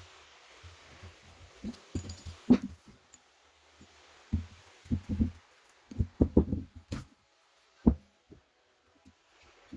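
Irregular dull knocks and thumps, mostly low, with a couple of sharper clicks: handling noise as objects are moved and set down.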